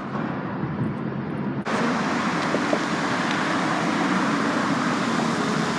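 Steady noise of car engines and traffic with a faint low hum. It abruptly becomes fuller and brighter about a second and a half in.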